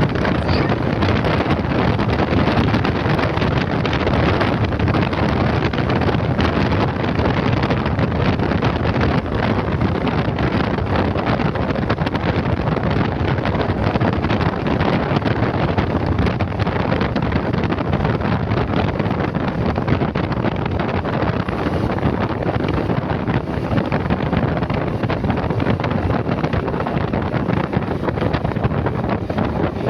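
Wind rushing over the microphone of a moving motorcycle: a steady, loud noise that holds for the whole stretch.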